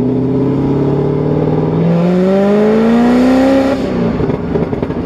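A supercharged, cammed LT4 V8 in a 2015 Corvette Z06 pulls under throttle. Its note climbs gently at first, then steeply for about two seconds. The revs drop off abruptly near the end, and the exhaust turns rough and choppy on the overrun, the pops and crackles of a burble tune.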